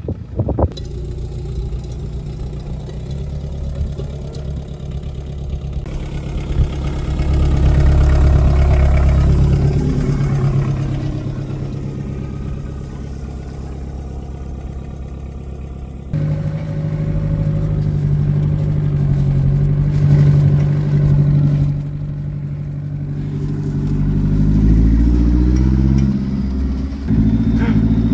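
Volkswagen Passat's 1.6 turbo-diesel four-cylinder engine running as the car drives on a dirt track, revving up and pulling away, the pitch rising under acceleration near the end. The sound changes abruptly a few times between takes.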